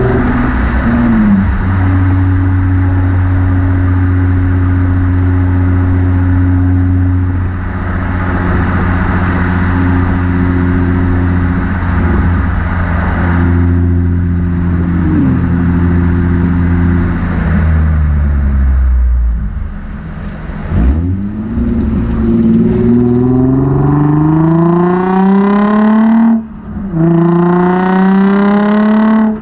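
Nissan 350Z's 3.5-litre V6 through a MotorDyne cat-back exhaust while driving: it holds a steady engine speed for most of the time, drops off around two-thirds of the way in, then revs up hard twice with a quick upshift between the pulls.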